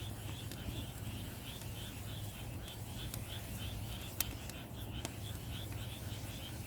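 Small pine firewood burning, giving a few sharp crackles and pops, the loudest about four seconds in. Behind it is a steady rhythmic chirping, about two or three chirps a second, over a low hum.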